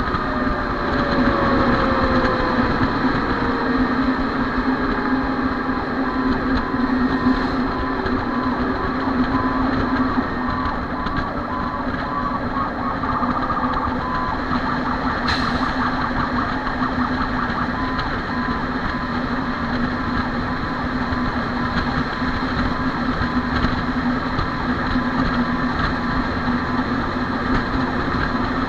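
Fire engine running steadily with a loud, even engine drone. A siren winds down in pitch and fades out within the first few seconds.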